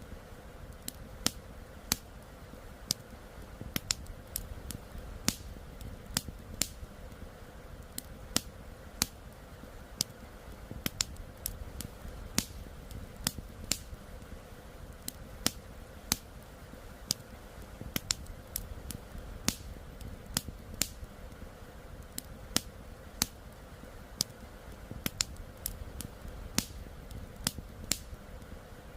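Campfire crackling: wood burning with sharp, irregular pops, about one or two a second, over a low steady rush from the flowing river.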